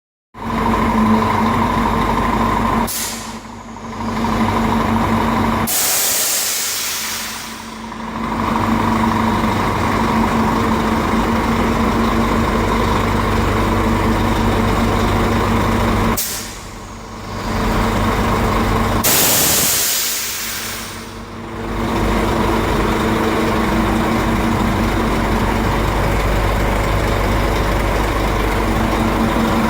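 Scania truck engine idling steadily, with compressed air hissing out twice, each time a short burst followed by a longer release of two to three seconds: air let out of the truck's air suspension.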